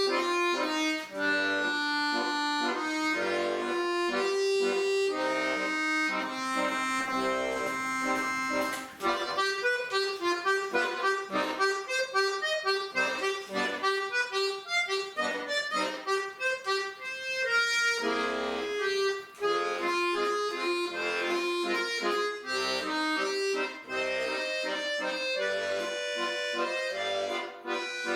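Solo accordion playing a lively tune, a melody over chordal accompaniment, with a passage of quick, short detached notes in the middle and a brief pause about two-thirds of the way through.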